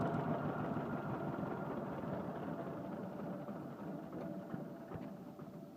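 John Deere Model B's two-cylinder engine running down after the ignition is switched off, its beat fading steadily over several seconds.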